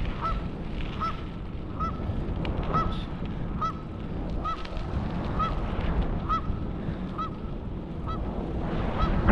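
Bicycle squeaking once per pedal turn: a short, high chirp repeating evenly a little faster than once a second, over low wind and road rumble.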